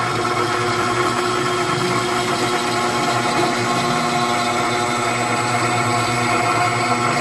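Router spindle running steadily while its cutter mills aluminium, a continuous whine held at several steady pitches over a noisy hum.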